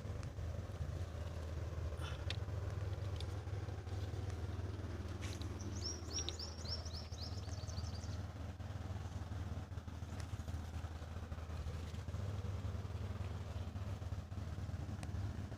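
A mini tractor's small engine running steadily with a low, even drone. A bird gives a quick run of high chirps about six seconds in.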